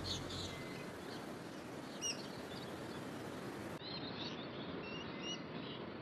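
Forest ambience: a steady background hiss with a few short bird chirps, one about two seconds in and a few more around four to five seconds in.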